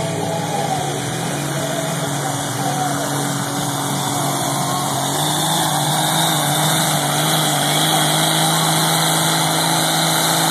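1992 Dodge's 5.9-liter first-generation Cummins diesel running hard under full load, pulling a weight sled. The steady drone climbs a little in pitch about halfway through.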